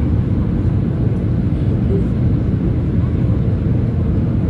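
Jet airliner engines giving a steady low rumble, with no rise or fall.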